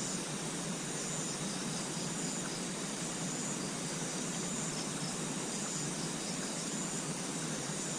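A high insect chirp repeating about once a second over a steady hiss of night ambience.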